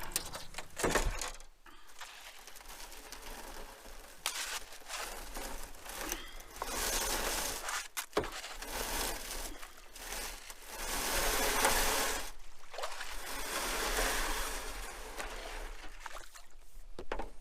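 Water splashing and trickling beside an aluminium canoe, coming in several swells, with a sharp knock about a second in and another about halfway through.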